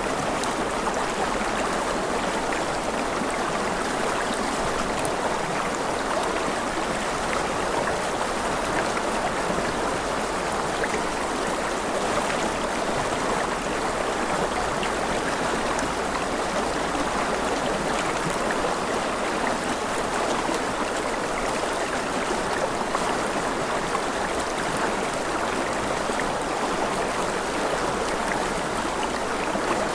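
Stream water flowing steadily, a constant babble with no change in level.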